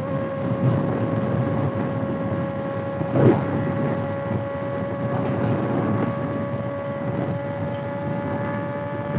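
Kawasaki ZX-6R inline-four engine running loud at a steady cruising speed, its note holding one pitch, under heavy wind noise on the microphone. A brief thump comes about three seconds in.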